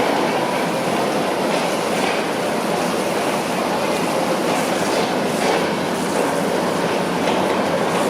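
Heavy construction machinery running steadily on a foundation excavation site, a continuous dense mechanical clatter with faint knocks now and then.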